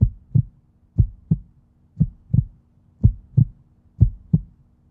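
Heartbeat sound effect: paired low thumps, lub-dub, repeating steadily about once a second.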